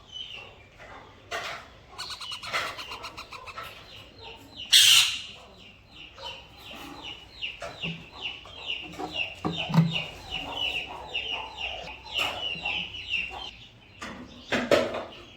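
Pet birds calling: a harsh squawk about five seconds in, then a long run of quick, high, repeated chirps, about four a second, lasting some eight seconds. Another loud harsh call comes near the end.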